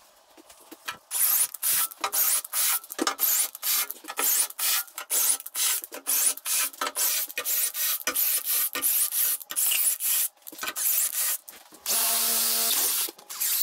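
Hand file rasping on metal in quick, even back-and-forth strokes, about three a second, ending in one longer continuous stroke lasting about a second.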